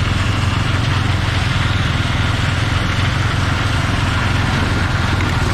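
Heavy diesel engine of harvest machinery running steadily under load, a constant low drone.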